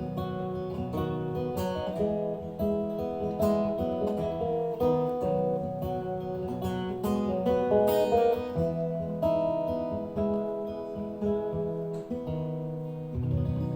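Acoustic guitar playing an instrumental passage of strummed chords and picked notes, with a final chord struck near the end that rings on.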